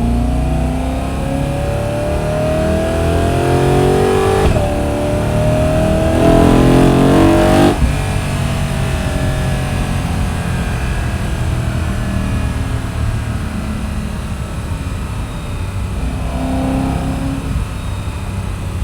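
BMW E92 M3's V8 engine and exhaust, with an M Performance muffler, accelerating hard with the revs rising. There is a quick upshift about four and a half seconds in, then another rising pull until the throttle is lifted near eight seconds in. After that it settles to a steadier, lower running sound.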